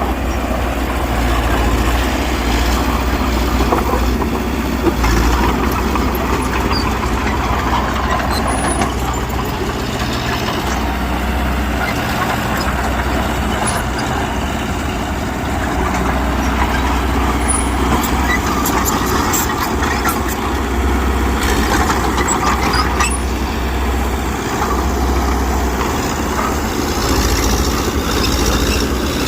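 Heavy diesel engines of earthmoving machinery running steadily under load, with a spell of short metallic clicks and rattles partway through.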